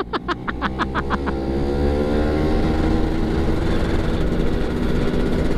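Yamaha F1ZR's two-stroke single-cylinder engine pulling hard under acceleration. The note starts with rapid popping, rises steadily in pitch for a couple of seconds, then holds at high revs.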